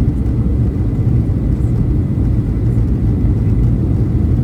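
Steady low rumble of a Boeing 737-800's CFM56 engines and airflow, heard inside the passenger cabin, with a faint thin whine above it.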